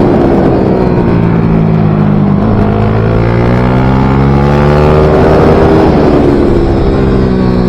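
Small racing motorcycle engine of a MiniGP / pit bike at full throttle on track, its pitch climbing and then dropping off sharply twice, with shifts or braking into corners.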